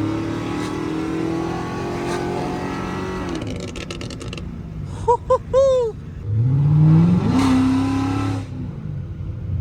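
Chrysler 300C's 5.7L HEMI V8 accelerating through its exhaust, its note climbing for about three seconds and falling away, then climbing again louder under a short burst of throttle. A little after halfway, three short squeaks rise and fall in pitch.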